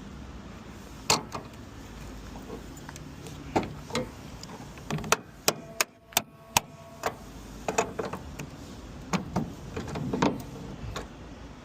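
Intermittent clicks and knocks from handling parts and tools on a crashed car, with a quick run of sharp clicks about five to six and a half seconds in.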